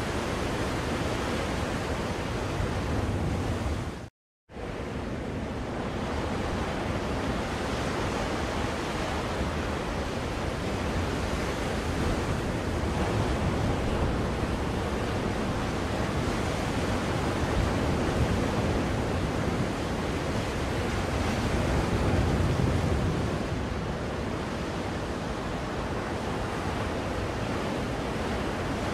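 Ocean waves played as white noise for a baby: a steady rushing surf with slow, gentle swells. It cuts out completely for about half a second, about four seconds in.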